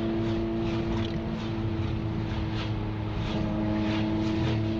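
Ferrari F355's 3.5-litre V8 engine droning at a steady cruise, heard from inside the cabin over road noise, its pitch holding even throughout.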